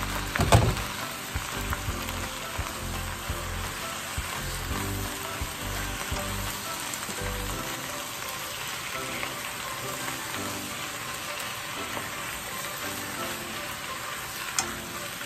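Pechay (bok choy) sizzling steadily as it is stir-fried in a frying pan and turned with wooden chopsticks. A sharp knock comes about half a second in, and a lighter one near the end.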